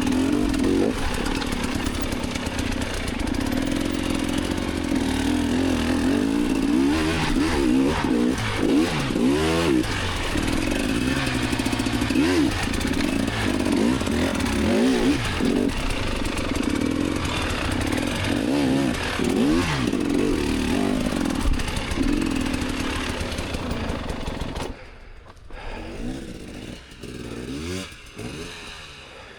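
Enduro dirt bike engine running hard and revving up and down repeatedly as the throttle is worked. About 25 s in, the sound drops sharply and only a fainter engine note remains.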